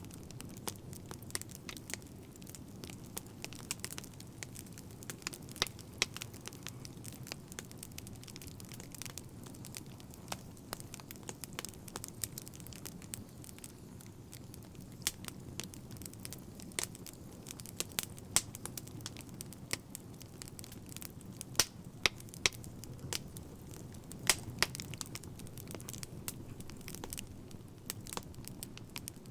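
Wood fire crackling: a low steady burning rumble with frequent irregular snaps and pops.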